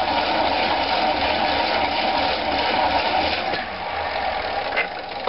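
Pedal-driven exercise bike alternator running under load, feeding a microwave oven transformer; a steady mechanical whir that dies down near the end as the pedalling slows.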